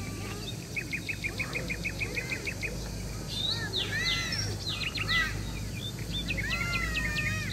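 Wild birds singing: a fast run of short chirps, about six a second, for a couple of seconds, then varied whistled phrases with rising-and-falling notes, over a steady low hum.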